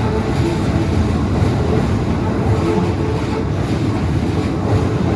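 Keikyu electric train running through the level crossing, a loud, steady rumble of wheels on rails.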